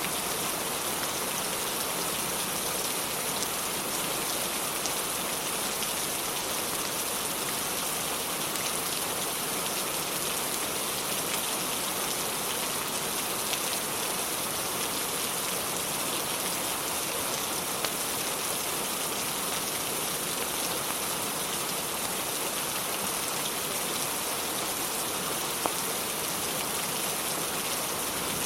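Steady rain falling, an even hiss without let-up, with a few isolated sharp clicks, the clearest about three seconds before the end.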